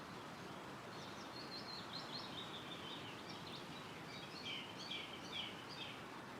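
Wind rustling through trees as a steady hiss, with a small songbird singing a quick run of high chirps and trills from about a second in until near the end.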